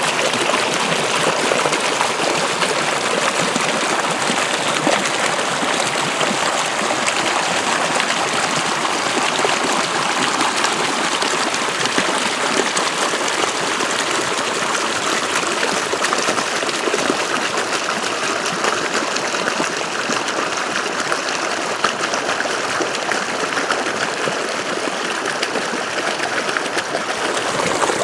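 Water flowing steadily along an irrigation ditch, a continuous even rush and trickle.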